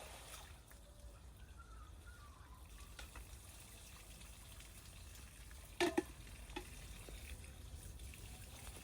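Faint trickling water, with a couple of sharp knocks about six seconds in.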